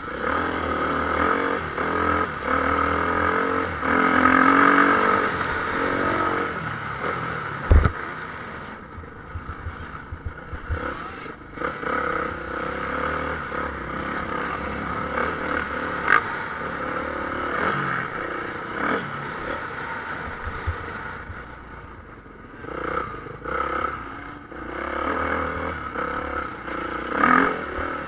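Motocross bikes racing on the track, several engines revving up and down as riders accelerate and pass. A single sharp thump about eight seconds in.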